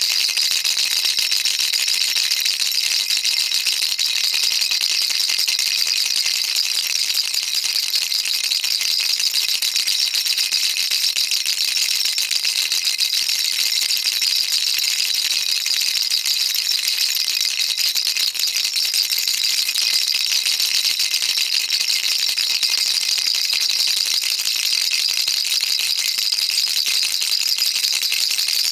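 Baby rattle shaken continuously, a dense, even stream of fine high-pitched clicking from the beads inside.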